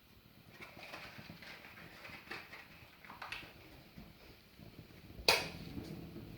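Fire in a fireplace crackling, with a few scattered pops and one sharp, much louder crack about five seconds in.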